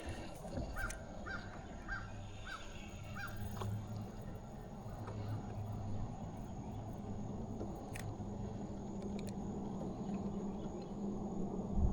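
A bird calling five times in quick succession, about two calls a second, over a low steady hum.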